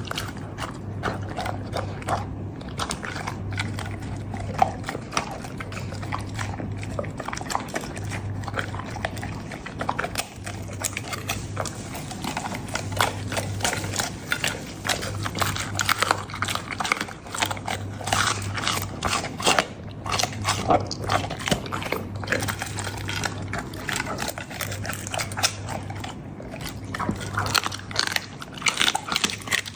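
A large Labrador chewing and crunching raw meat and bones, with wet smacking and many irregular sharp crunches.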